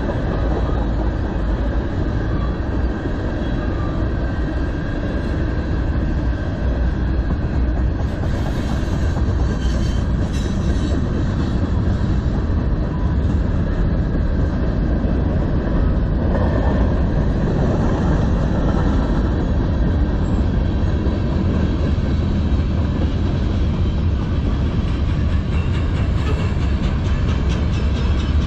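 Freight train cars rolling past: tank cars, covered hoppers and boxcars, their steel wheels running on the rails in a steady, even noise.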